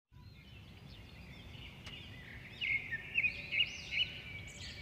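Birds chirping and calling in short rising-and-falling notes, loudest about halfway through, over a low steady background rumble.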